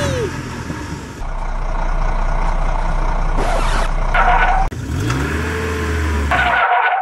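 Truck engine sounds in several spliced segments: engines running with a low steady hum, and a rev rising about five seconds in. The sound cuts off suddenly at the end.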